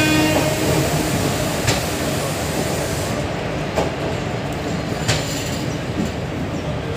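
Indian Railways express passenger coaches rolling past along the platform as the train pulls in: a steady rumble of wheels on the track, with three sharp clacks from the wheels spread through it.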